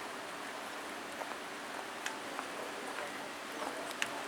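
Steady rushing water of a waterfall, an even hiss with a few faint ticks over it.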